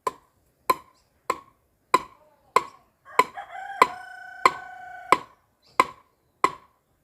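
Regular blows knocking a wooden stake into the ground, about one and a half per second and eleven strikes in all. Partway through, a rooster crows once for about two seconds over the knocking.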